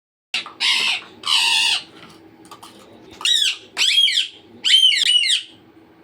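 Pet parrot calling: two harsh squawks, then three louder, shriller calls that swoop in pitch.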